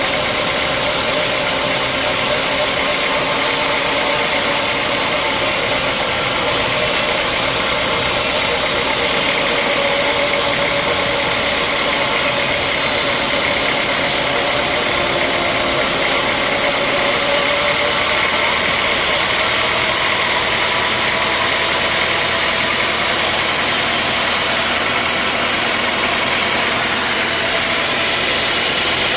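Sawmill machinery engine running steadily and unbroken, its mid-pitched hum drifting slightly in pitch.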